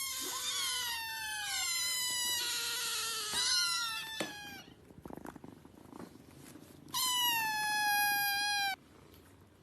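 Cat meowing: several drawn-out meows that fall in pitch, some overlapping, over the first four and a half seconds, then one long meow near the end.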